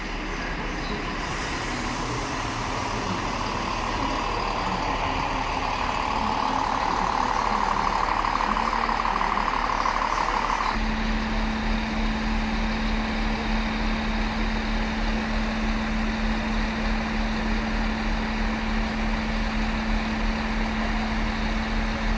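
A train at a station platform: a high-pitched whine or squeal swells and then stops abruptly about halfway through. A steady engine hum with a low throb follows, as of a diesel train standing at idle.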